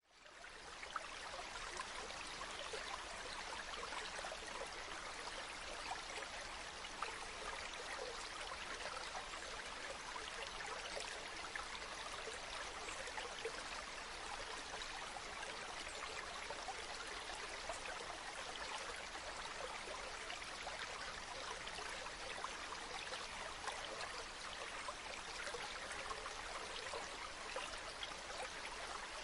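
Water flowing steadily over stones in a stream, a continuous rushing with small splashes and trickles, fading in over the first second.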